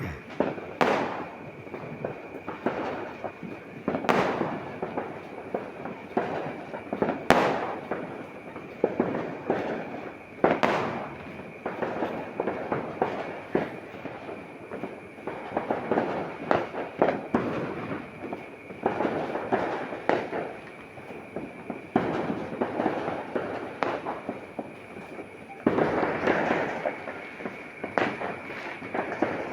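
Fireworks and firecrackers going off: continuous crackling, with several loud single bangs spaced a few seconds apart in the first half.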